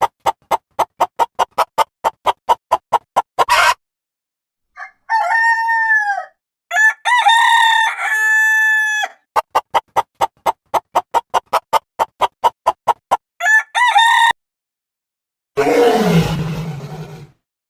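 Chicken sounds: rapid, evenly spaced clucking, about four or five clucks a second, broken by several rooster crows in the middle. Near the end a different, low and rough falling animal growl comes in.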